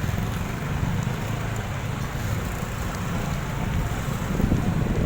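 Wind buffeting the microphone over the low rumble of a moving motorbike; the buffeting grows stronger about four seconds in.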